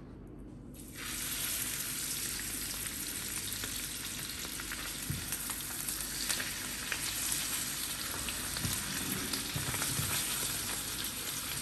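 Food frying in hot oil in a pan. The sizzle starts suddenly about a second in and stays steady, with scattered small crackles and spatters.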